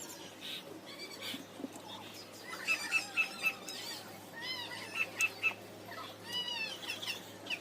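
Small birds chirping: short high notes in quick runs of three or four, with a few arching calls in between.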